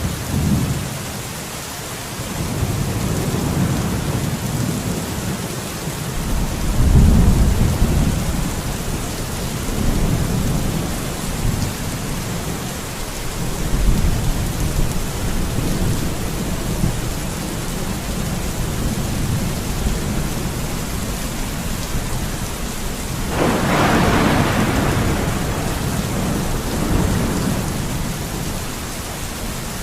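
Steady rain falling, with several low rumbles of thunder, the loudest about 7 seconds in, and a sharper thunderclap about 23 seconds in that fades over a few seconds.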